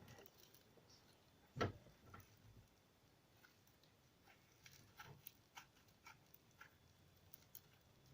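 Quiet room with faint scattered clicks and small handling noises, and one louder knock about a second and a half in, typical of slime and its container being handled close to the microphone.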